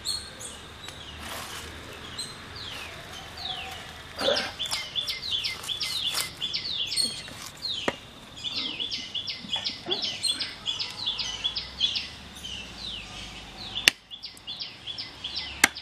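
A bird calling in quick runs of short, falling chirps, several a second, starting a couple of seconds in. A few sharp knocks come through as well, the loudest near the end, from a knife chopping chicken on a wooden block.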